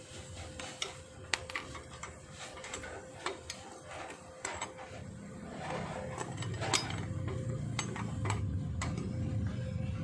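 Irregular metallic clinks, taps and ratchet-like clicks, as of tools and metal parts being handled. A low rumble comes in about halfway through.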